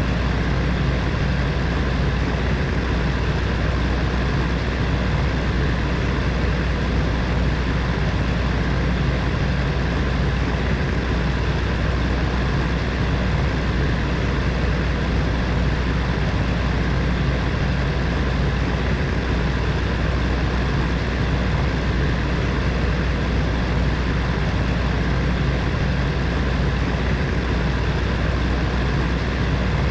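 Space heater's fan running steadily, a constant whooshing hum with a deep low rumble and faint steady tones.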